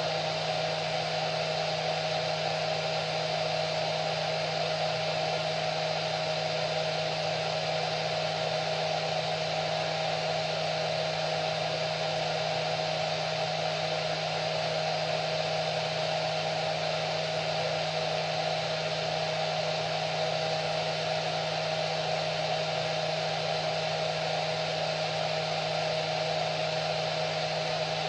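Hair dryer running continuously at a constant speed: a steady rush of air with a low motor hum and a steady higher whine.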